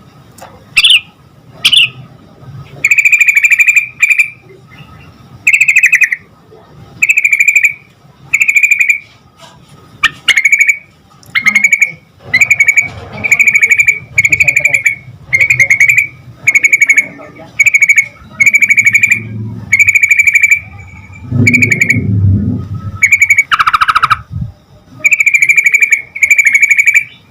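Yellow-vented bulbul (trucukan) singing: a long series of loud, short bubbling phrases, each about half a second to a second long, coming roughly once a second.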